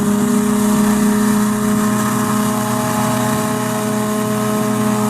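Flying boat's engine running steadily, a constant droning hum with no change in pitch.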